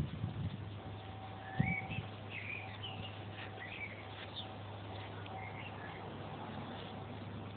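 Birds chirping: a string of short calls that sweep up and down in pitch, thinning out in the second half. A single dull thump comes about a second and a half in, over a steady low hum.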